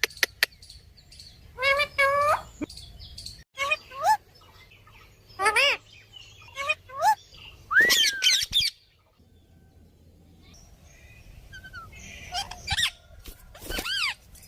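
Pet parrots calling: a string of short pitched squawks and whistles with bending pitch, about seven calls with pauses between them. The loudest comes about halfway through. A few sharp clicks come right at the start.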